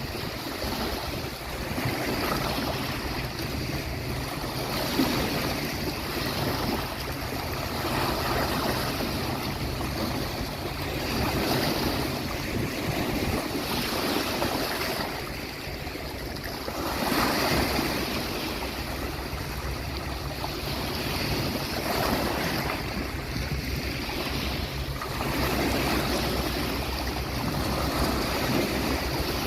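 Sea waves breaking and washing up the beach, swelling and ebbing every three to five seconds, over a steady low rumble.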